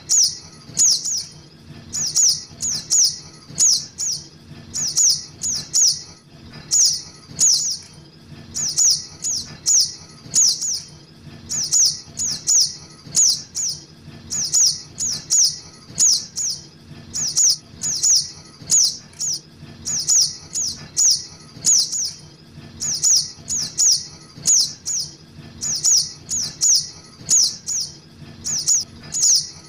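Lure recording of juvenile sogok ontong birds: high, sharp chirps given in quick clusters of two or three, repeating about once a second, over a faint steady low hum.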